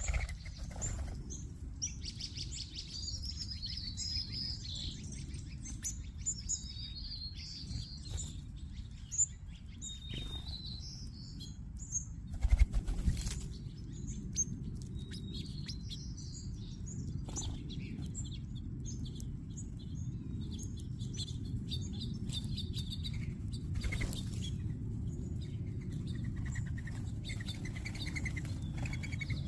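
A feeding flock of small songbirds chirping and twittering, with wing flutters and a few sharp knocks, the loudest cluster about twelve seconds in, over a steady low rumble.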